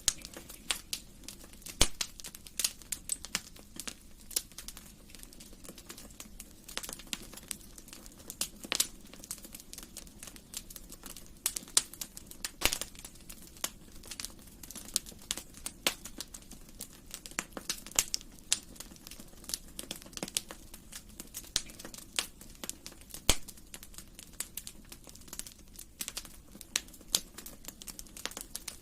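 Wood fire crackling in a fireplace: irregular sharp pops and snaps over a soft, steady low rumble of burning.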